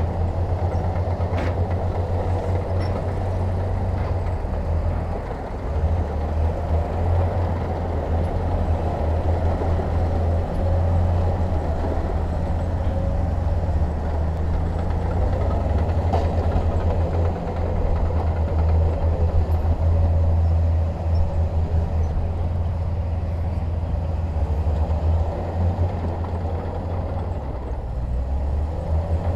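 Heavy diesel construction machinery running steadily: a deep, continuous engine rumble.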